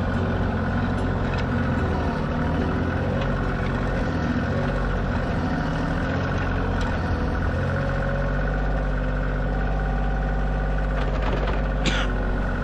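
Tractor diesel engine running steadily, with a short sharp clank near the end.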